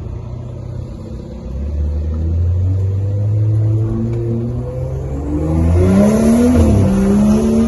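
Straight-piped BMW N55 turbocharged inline-six in an F15 X5, pulling under acceleration. It starts as a steady low drone, grows louder, then rises in pitch and gets louder still from about five seconds in.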